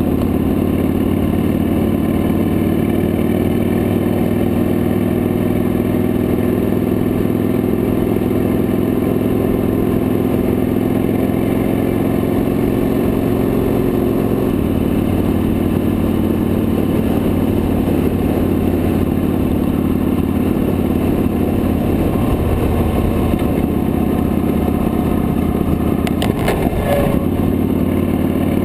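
Victory High-Ball V-twin motorcycle engine running at cruising speed under wind noise on a handlebar-mounted camera, the engine note shifting about halfway through and again later. A brief rattle sounds near the end.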